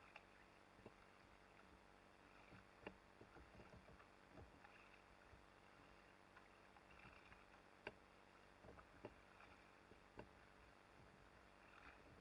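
Faint, muffled scattered knocks and clicks from a kayak on the water, heard through a sealed waterproof camera housing over a low steady hiss; two knocks, a few seconds apart, stand out.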